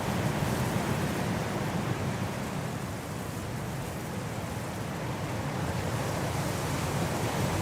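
Steady winter wind blowing in a continuous rushing hiss with a deep low rumble, easing slightly about halfway through and then building again.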